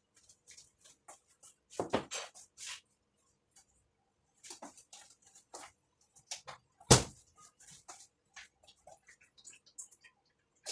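Kitchen handling sounds while spring rolls are being wrapped: scattered light clicks and taps of dishes and utensils, with one loud knock about seven seconds in.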